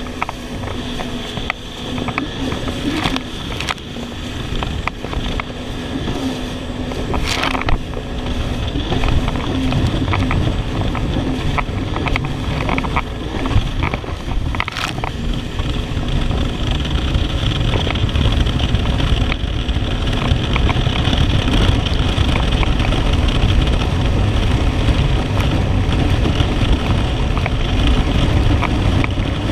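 Jet ski engine running at speed under heavy wind on the microphone and water rush, getting louder about a quarter of the way in. Two sharp knocks stand out, about a third of the way in and again near the middle.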